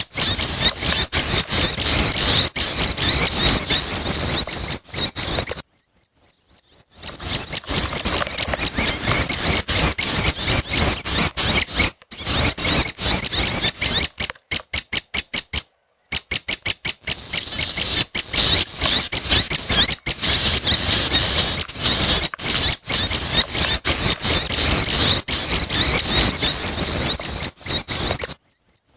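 Young prinias (prenjak) calling: dense, high-pitched squeaky chatter that pauses briefly around six seconds in, turns into a quick even run of about eight notes a second in the middle, and stops just before the end.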